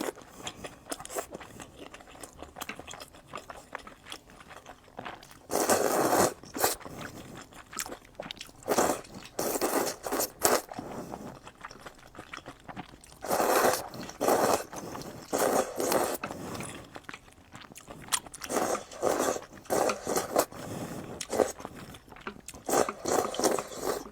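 Close-miked chewing and crunching of food, in bursts of bites with quieter pauses between.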